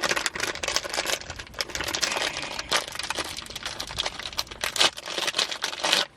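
Plastic crinkling and clicking in a dense, irregular stream as plastic cup holder pieces and their wrapping are handled. It stops abruptly just before the end.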